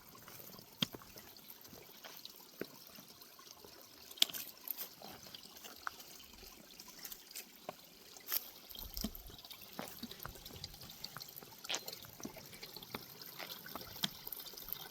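Small trail-side stream trickling, with scattered footsteps crunching and clicking on the rocky trail.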